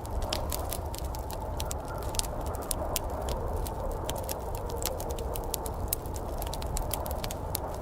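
Wood fire in a fireplace crackling: many irregular sharp pops and snaps over a steady low rumbling noise.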